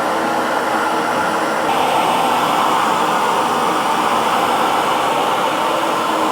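Electric hair dryer running steadily: a constant rush of blown air with a faint motor hum, the tone shifting slightly about two seconds in.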